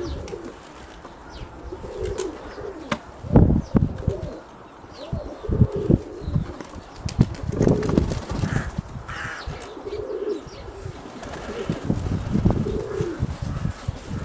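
Nikolaev pigeons cooing over and over in warbling phrases, with wing flapping and low bumps of gusty wind on the microphone.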